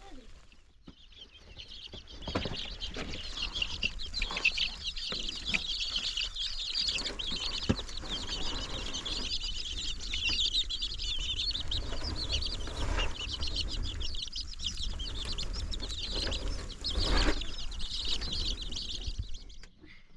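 A flock of birds chattering densely with many short high calls, with a few dull knocks in between.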